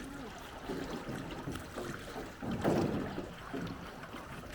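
Water sounds of a small hand-rowed river boat under way, with faint voices now and then, the clearest a little before three seconds in.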